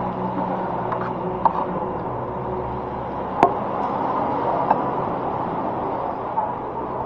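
Steady restaurant background noise with a few sharp knocks and clinks of tableware, the loudest about three and a half seconds in.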